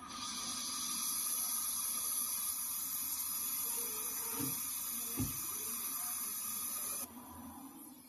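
Brazing torch flame hissing steadily as a refrigerator capillary tube joint is brazed, then cutting off sharply about seven seconds in. A light tap is heard about five seconds in.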